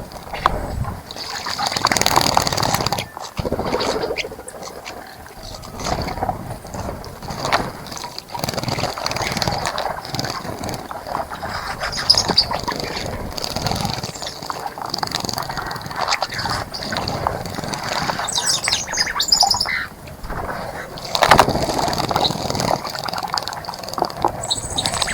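Small birds splashing and fluttering their wings in a bird bath, with chirps and short calls among the splashes.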